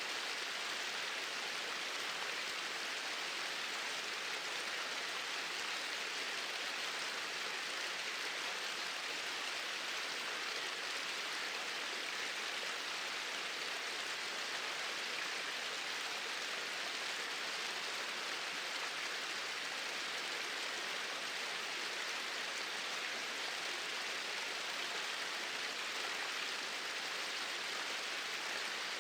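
Small waterfall pouring steadily over rocks, an even hiss of falling water.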